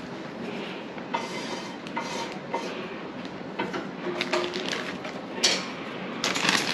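Kitchen handling sounds: scattered light clinks and taps of utensils and dishes, with soft rustling.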